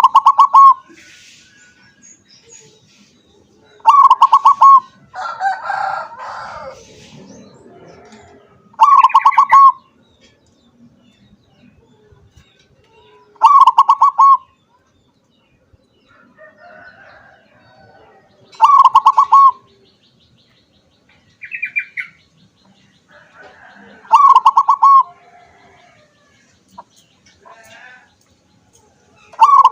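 Zebra dove (perkutut) singing: its rhythmic, staccato cooing phrase, each about a second long, repeated about every four to five seconds, seven times.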